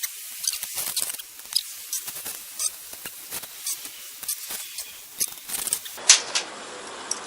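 Udon noodles being slurped from a hotpot: a quick, irregular run of wet sucking sounds that stops about six seconds in, followed by a couple of sharp clicks.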